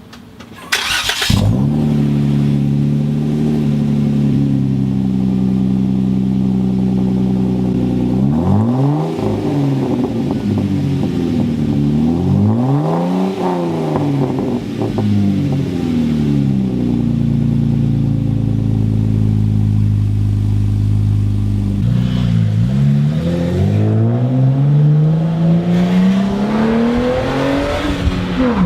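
Jeep Wrangler JK's 3.6-litre V6 running through a Pypes high-clearance catback exhaust with an M80 muffler. It fires up about a second in, idles steadily, and is revved several times, with a long climbing rev near the end.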